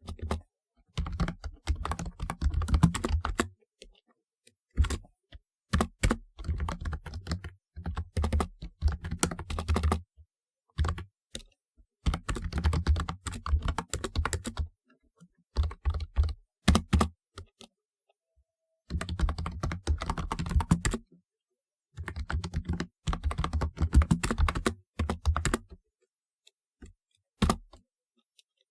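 Typing on a typewriter-style keyboard: runs of rapid key clicks lasting a few seconds each, broken by short pauses.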